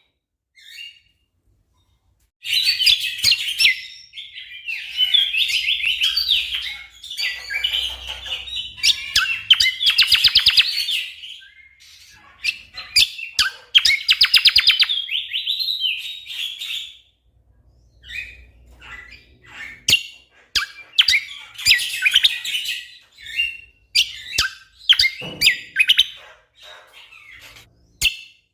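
Cucak kombo (kecial kombok) songbird singing in bursts of rapid, tightly packed chirping notes, phrase after phrase with short pauses between them.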